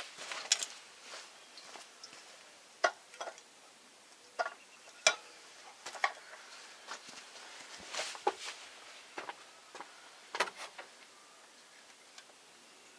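Hand tools working on engine parts: a dozen or so separate sharp metallic clicks and clinks at irregular intervals, with short pauses between.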